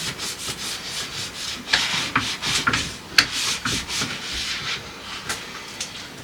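Containers and items being slid and set down on refrigerator shelves: irregular short scraping rubs and light clicks, busiest in the middle.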